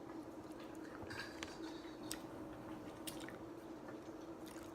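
A person chewing shrimp and fettuccine Alfredo, with soft wet mouth sounds and a few small clicks, over a faint steady hum.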